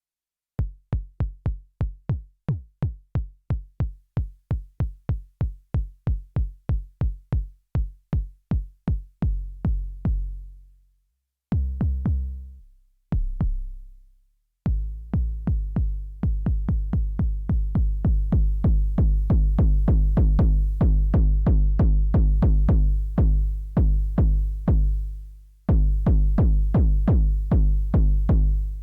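Elektron Syntakt's analog 'BD Silky' bass drum engine playing a sequenced kick pattern of deep, low-pitched hits with a sharp click at the front of each, about four a second. The decay is stretched into long, ringing booms in the middle, with gaps between them, and then a busier, denser kick pattern takes over.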